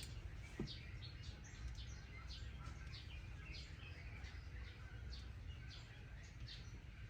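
Faint bird chirping: short falling chirps repeated about twice a second over a steady low rumble, with a single click just after the start.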